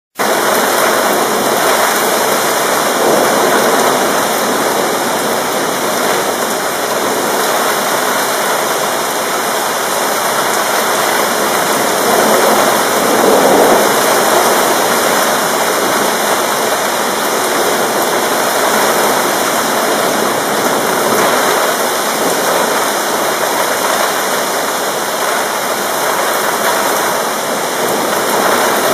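Rain pouring down steadily in a thunderstorm, a dense even hiss that swells slightly about halfway through; no thunder is heard.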